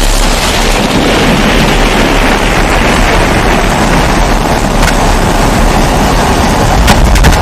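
Kerosene pressure stove (babour) burner running with a steady roar, with a few sharp clicks about five seconds in and near the end.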